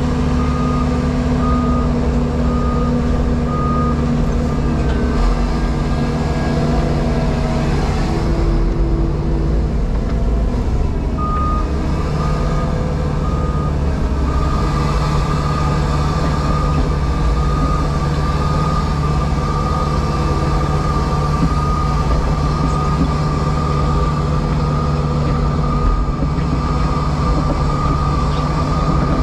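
Heavy diesel machine running steadily under load, heard from inside the cab, with a reversing alarm beeping in regular pulses for the first few seconds and again from about twelve seconds in.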